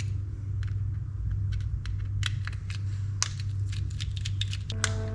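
Small metal fishing-reel parts and tools clicking and ticking as the reel is taken apart, the clicks coming thicker after about two seconds, over a steady low hum. A few steady tones come in shortly before the end.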